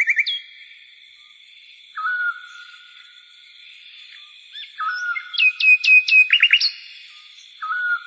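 Birds singing. A rapid trill opens, then a whistled note repeats every two to three seconds, and a quick run of sharp downslurred whistles with a few rising notes comes a little past the middle, all over a steady high-pitched background tone.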